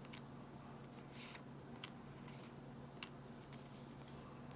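Faint handling of trading cards being flipped through: a few soft slides and sharp little clicks about a second apart as cards are moved from the stack, over a low steady hum.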